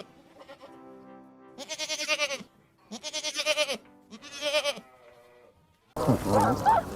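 Three wavering bleats from a farm animal, each under a second long, with background music. Near the end a louder, different sound cuts in.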